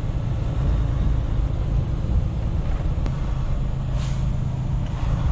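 Semi truck's diesel engine running steadily at low speed, heard from inside the cab, with a short hiss about four seconds in.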